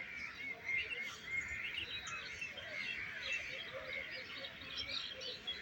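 Many birds chirping together, a dense run of short overlapping calls with no train audible.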